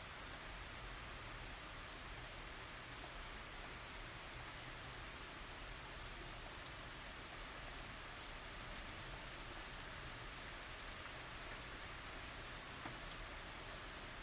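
Steady tropical rain falling, a continuous hiss with many fine drop ticks, no thunder.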